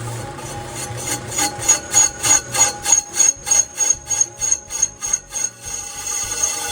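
Ammco 4000 brake lathe cutting down a steel cylinder sleeve. The cutting tool scrapes the turning sleeve in a regular beat of about three strokes a second for several seconds, over a steady high whine.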